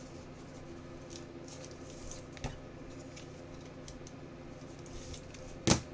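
Trading cards being handled on a table: soft rustles and light taps over a low steady hum, with one sharp click near the end.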